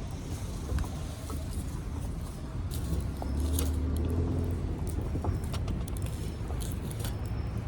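Small wood fire crackling in a Firebox stove, with sharp pops scattered throughout. Under it runs a steady low rumble that swells a little in the middle.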